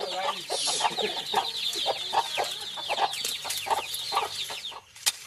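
Chickens clucking, with many quick high chirps over the clucks; the calling stops shortly before the end, leaving a couple of sharp clicks.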